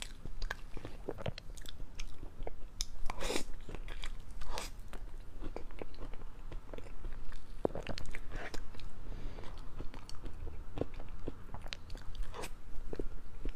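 Close-miked chewing and wet mouth sounds of someone eating large spoonfuls of chocolate mousse cake, with many small irregular clicks and smacks.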